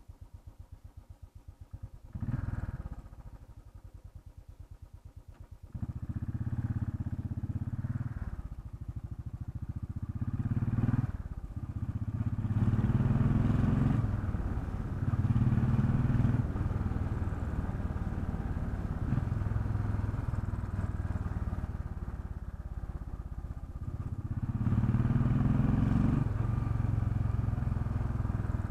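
Royal Enfield Bullet 500's single-cylinder four-stroke engine idling with an even, slow pulse, then pulling away about six seconds in. It accelerates up through the gears, with a short dip at each of several gear changes, and then settles into steady running.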